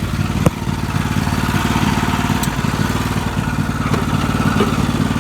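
Garden tractor engine running steadily, with a sharp knock about half a second in.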